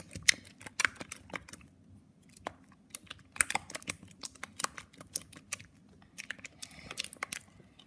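A spatula stirring glue slime in a bowl as the contact lens solution activator is mixed in: irregular sharp clicks and taps, several a second.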